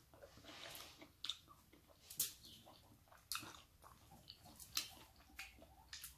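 Faint close-up chewing and lip-smacking of a person eating with their hand, with scattered small wet clicks.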